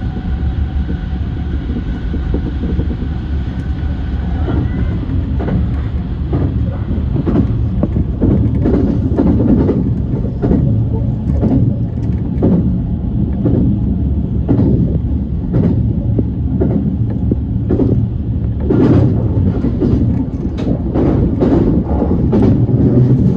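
Yokosuka Line E235 series electric train running along the track: a steady low rumble, with a thin whine that fades out a few seconds in, then a run of sharp clacks from the wheels over the track that come thicker near the end.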